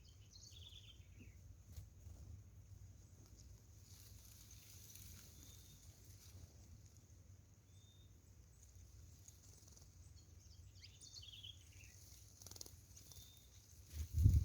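Saffron finch calls: two short chirp groups falling in pitch, about half a second in and again about eleven seconds in, over a steady high insect hiss. A loud low thump comes near the end.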